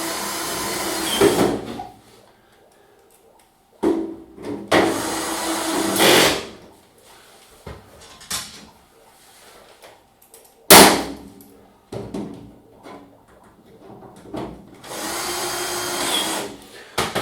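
Cordless drill-driver driving screws into a tumble dryer's sheet-metal back panel: three runs of about two seconds each, with a sharp click about halfway through.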